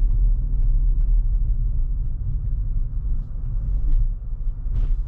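Steady low rumble of road and traffic noise inside a Tesla's cabin, with a light click near the end.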